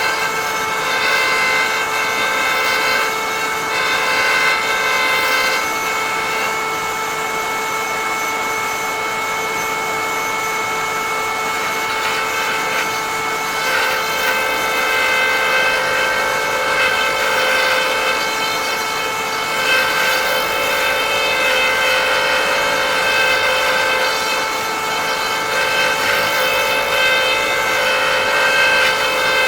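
A power-driven cutter on a woodturning threading jig running with a steady whine while it cuts a thread into wood. A rougher cutting noise comes and goes over the whine, heaviest near the start and again from about halfway through.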